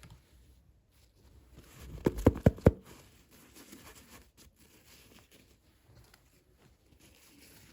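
Hands handling toy packaging during an unboxing: faint rustling, with a quick run of four or five sharp taps or clicks about two seconds in.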